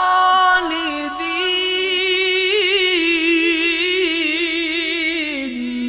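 A single voice reciting Quran in a melodic style, holding one long drawn-out note whose pitch wavers in quick ornamental turns, stepping down near the end before it stops.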